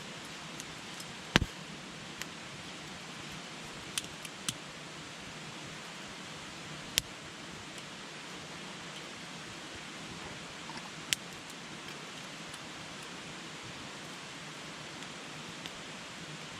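Wood campfire burning with a steady hiss and sharp crackles and pops. The loudest pop comes about a second and a half in, and a handful of others are scattered through.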